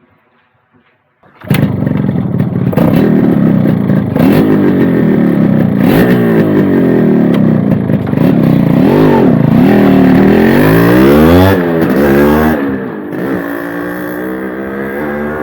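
Yamaha RX-Z motorcycle's two-stroke single-cylinder engine revving hard, starting suddenly about a second and a half in, its pitch rising and falling over and over. Near the end it drops a little quieter and holds a steady climb in pitch.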